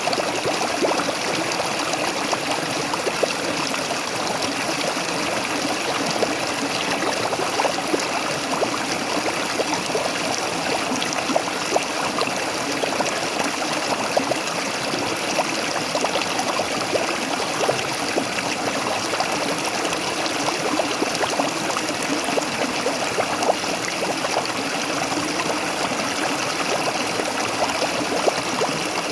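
Waterfall: water pouring and splashing steadily, with many small splashes and droplets ticking over the rush.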